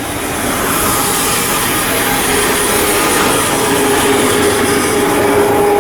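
Steady, loud machinery noise: a hiss with a steady hum that comes in about two seconds in.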